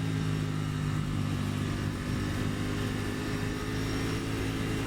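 2023 Aprilia Tuono 660's parallel-twin engine running at steady revs.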